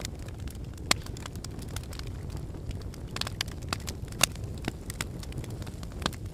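Wood fire burning in a fireplace: a steady low rumble with irregular sharp crackles and pops from the logs, two loud pops about a second in and past the middle.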